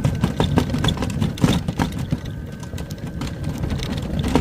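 Ryobi 80V electric lawn tractor pushing snow with a makeshift plow: a faint steady motor whine over a low rumble and irregular crunching and scraping of snow.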